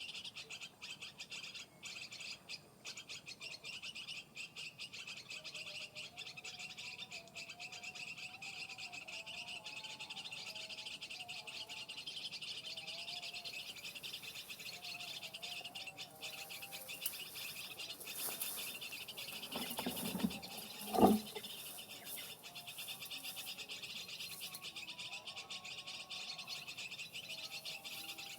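Birds chirping over a steady high-pitched background chorus, with one brief louder sound about three quarters of the way through.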